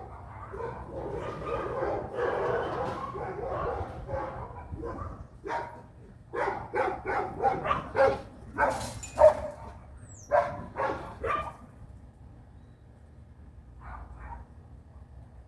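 A dog barking and yapping: a dense stretch of noise at first, then a run of about a dozen short barks in the middle, then quieter.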